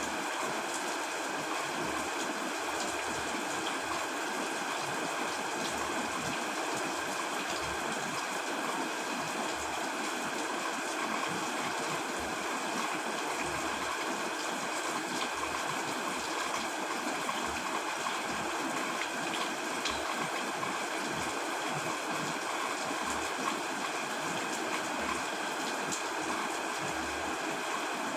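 Heavy rain falling steadily, an even wash of noise with no thunder.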